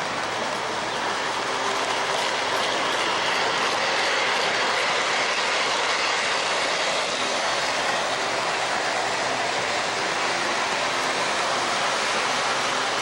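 O-gauge model train running on its track layout: a steady rolling rumble of wheels on the rails, with a faint hum from the locomotive.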